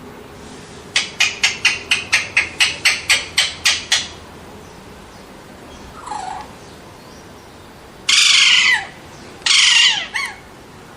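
Alexandrine parakeet calling: a quick run of about a dozen short calls, a single call a little later, then two long, loud screeches near the end.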